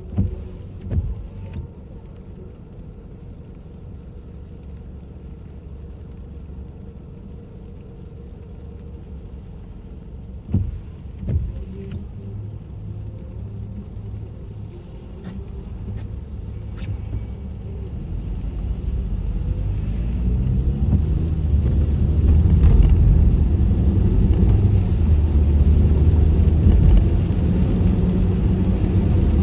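Low road and engine rumble inside a car with the windows up, with a few thumps near the start and again about ten seconds in. From about two-thirds of the way through the rumble swells and stays louder as the car speeds up.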